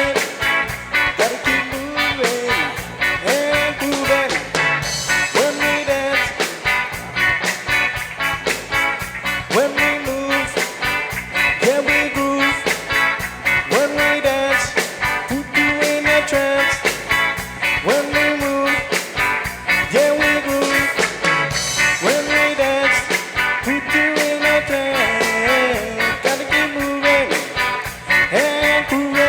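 A reggae band playing live: a steady, even beat with a repeating melodic figure that swoops up about every second or two.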